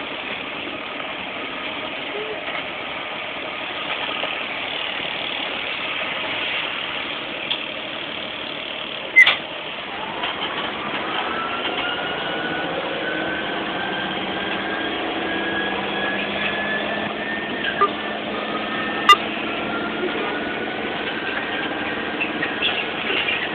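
A vehicle engine running under a steady noise. From about ten seconds in, a whine rises slowly in pitch as it gathers speed. A few sharp clicks fall in the middle.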